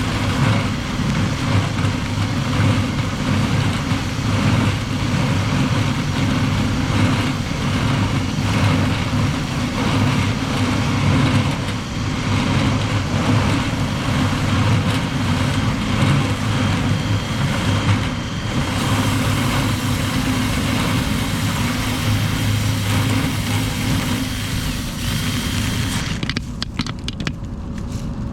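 Dryer vent cleaning equipment running steadily: a motor's hum under a loud rush of air. Near the end the rushing part drops away and it gets quieter.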